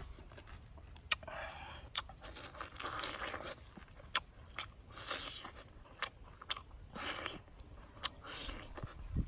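Crunching bites and chewing of crispy fried chicken, with sharp crackles at irregular intervals.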